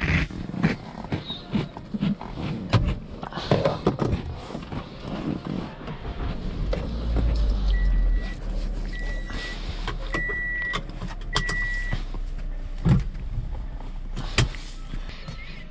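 Clicks and knocks of handling things inside a Toyota Corolla's cabin, then the engine starting about six seconds in and settling into a steady low idle. Over the idle, a dashboard warning chime beeps four times at an even pace, and a few sharp clicks follow near the end.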